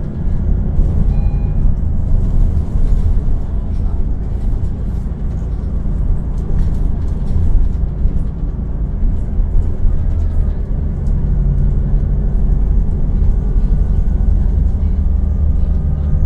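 Engine of a Volvo B12BLE city bus running under way, driving through its Voith automatic gearbox: a steady low drone whose pitch shifts a little up and down in the middle.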